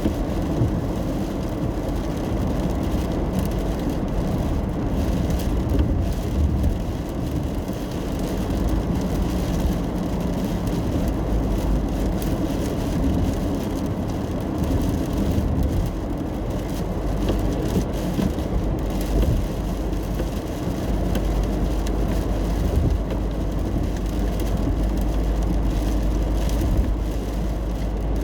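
Car interior on a drive in the rain: steady road and engine noise inside the cabin, with rain on the car.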